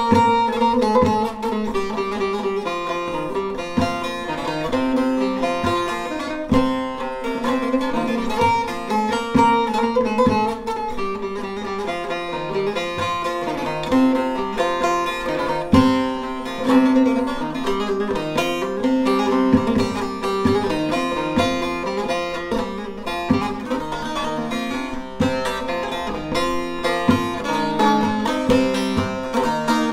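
A short-neck bağlama with a carved mulberry body and spruce top, played solo in a continuous run of quick plucked notes.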